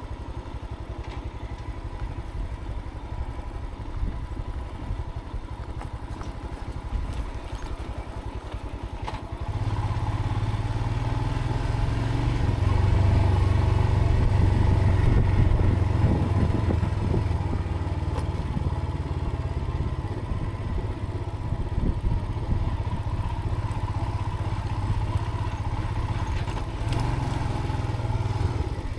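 Motorcycle engine running under way on a rough dirt track, heard from a helmet chin camera with heavy low wind rumble over it; it gets louder about a third of the way in.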